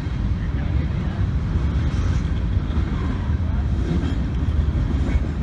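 Freight train passing, a steady low rumble without breaks.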